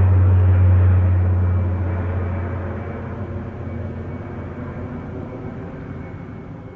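A military aircraft flying past, with a strong steady low hum over a wide rushing noise. It is loudest at the start and then fades away steadily as the aircraft moves off.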